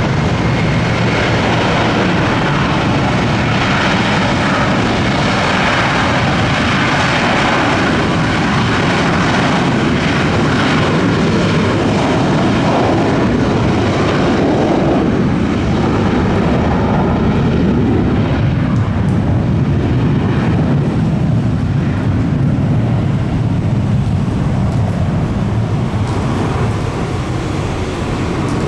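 Jet aircraft engines running loud and steady, easing off in the last few seconds.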